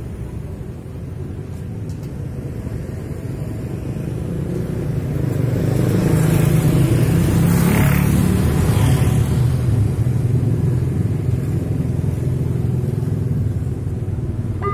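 Road vehicle engine rumble passing close by, growing louder from about four seconds in. It is loudest around six to nine seconds in as a vehicle goes past, and a steady rumble continues after.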